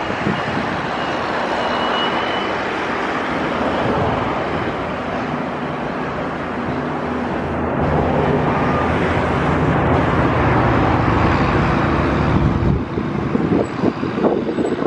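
Engine noise with a steady low hum that builds through the middle and drops off abruptly about 12.5 seconds in, then wind buffeting the microphone.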